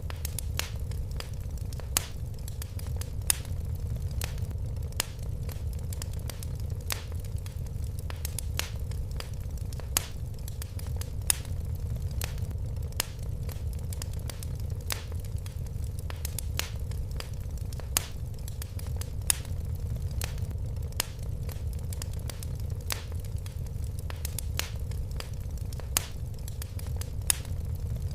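Wood fire crackling in a fireplace: frequent irregular sharp pops and snaps, a few louder ones, over a steady low rumble of the flames.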